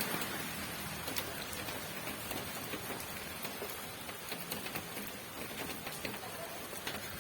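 Steady rain falling, with many separate drops ticking sharply through the hiss.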